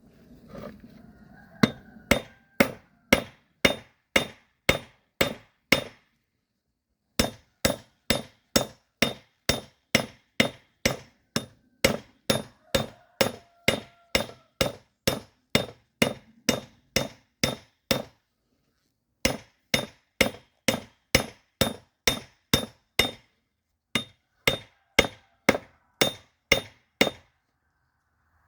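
Hand hammer blows on steel over an anvil, forging a railroad spike into a kukri blade. The blows come steadily at about two a second, each with a short metallic ring, in several runs broken by brief pauses.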